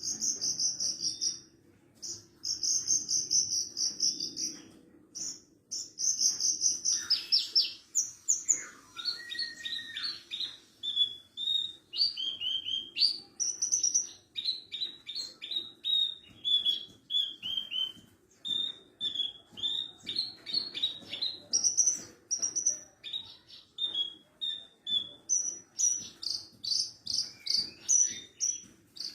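Horsfield's bushlark of the parva race (branjangan parva) singing a fast, high song of chirps and trills. It comes in short bursts with brief pauses at first, then runs almost without a break from about seven seconds in.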